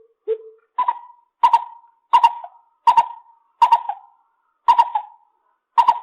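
Lesser coucal calling: a series of eight short hollow notes, roughly one every three-quarters of a second. The first note is low, and from about a second in the notes step up to a higher pitch.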